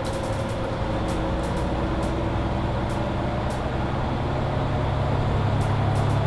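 Mercedes-Benz Citaro C2 hybrid bus running on the road: a steady diesel engine drone with a whine that climbs slightly in pitch. The drone grows a little louder near the end, and there are scattered light clicks and rattles.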